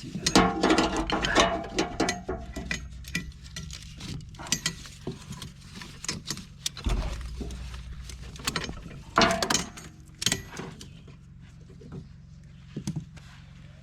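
Metal clinks and clanks from a ratchet tensioner and the steel links of an over-the-tire skid steer track being handled, irregular throughout, with louder clatter near the start and again about nine and ten seconds in.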